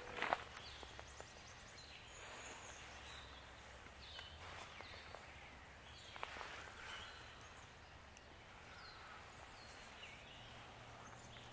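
Faint woodland birds calling: short, downward-slurred chirps every second or so. A single short crunch just after the start is the loudest sound, over a low steady background hum.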